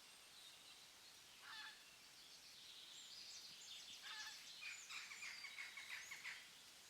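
Songbirds calling over faint forest ambience: a short call about a second and a half in, then a busy run of rapid high chirps and trills lasting about three seconds.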